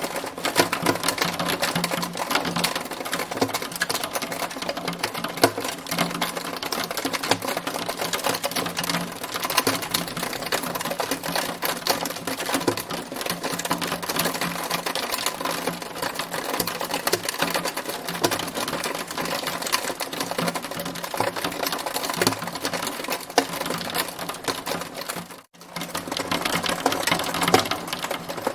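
Hailstones striking a hard surface in a dense, continuous clatter of rapid ticks, briefly dropping out for a moment near the end.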